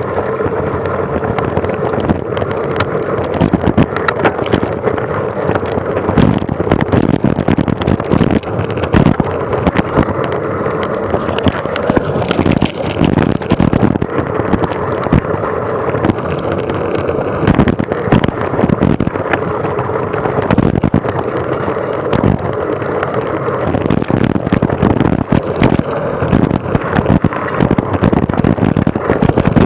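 Mountain bike ridden fast over rough forest track, heard close up: dense, irregular knocks and rattles over a steady rush of wind on the microphone.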